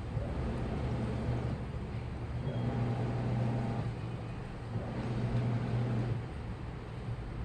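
Washing machine running a cycle: its motor hums in swells of about a second and a half, repeating every couple of seconds as the drum turns, over a steady churning of water and laundry.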